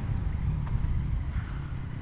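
Yamaha MT-09's three-cylinder engine running steadily through an Akrapovic carbon full exhaust while riding, its low note easing a little in the second half, with wind rumble on the microphone.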